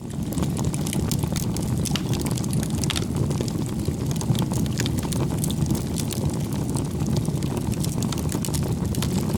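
Bonfire burning: wood crackling in many small sharp pops over a steady low roar.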